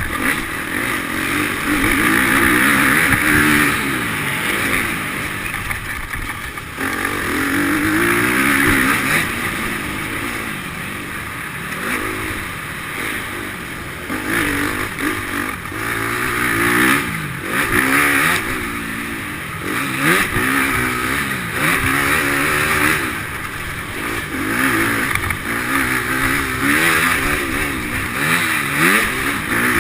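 Motocross bike engine revving up and dropping back over and over, its pitch climbing and falling every second or two as the rider works the throttle around the track.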